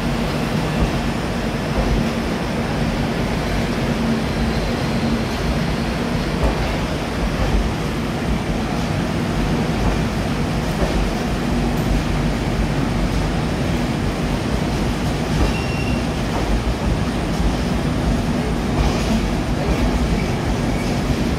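Coromandel Express's LHB passenger coaches rolling past along a station platform: a steady rumble of wheels on the rails with a low, steady hum.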